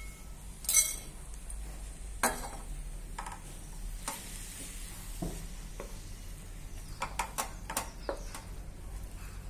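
Grated bottle gourd sizzling gently in ghee in a pan as it is stirred, with a few sharp scrapes and taps of the spatula against the pan, several of them close together about seven seconds in.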